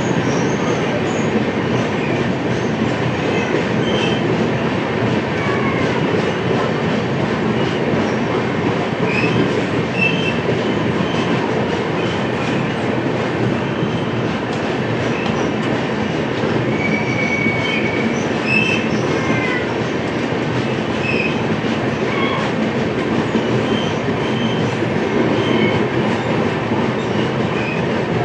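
Passenger express train running steadily on the track, a dense continuous rumble of wheels and coaches, with short high wheel squeals coming and going throughout.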